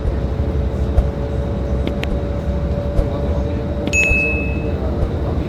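Scania K310IB city bus under way, heard from inside: a steady drone from the engine and drivetrain over a low road rumble. Light clicks come about once a second, and a short high electronic beep sounds about four seconds in.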